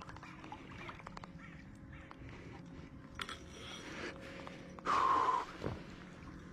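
A single loud, harsh, bird-like call about five seconds in, falling slightly in pitch, over faint scattered clicks.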